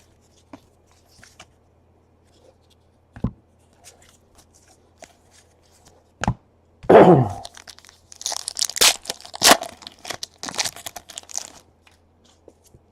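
A trading-card pack's wrapper being torn open with one loud rip about seven seconds in, then crinkled and crumpled in the hands for a few seconds. A few light handling clicks and a knock come before it.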